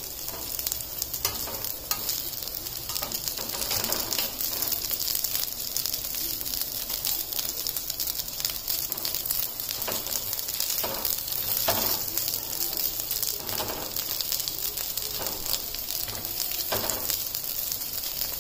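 Potato tikkis shallow-frying in oil on a flat tawa, a steady sizzle. Now and then there are short scrapes of a steel spatula against the pan as the patties are pressed and turned.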